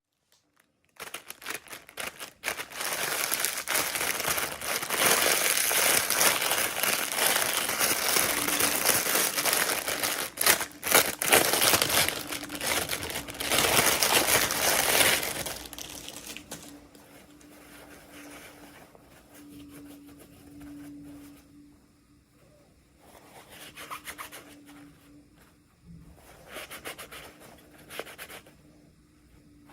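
Plastic packaging crinkled and torn open by hand: loud, dense crinkling for about the first half, then quieter rustling and handling.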